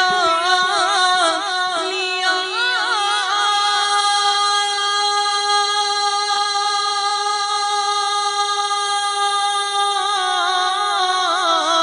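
Male naat reciter singing in Urdu, drawing out the word "liya" in wavering ornamental turns and then holding one long steady note for several seconds before the ornaments return near the end.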